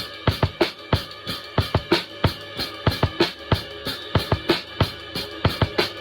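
A drum kit played in a steady groove, with bass drum, snare and rimshot strikes coming several times a second over a steady musical backing.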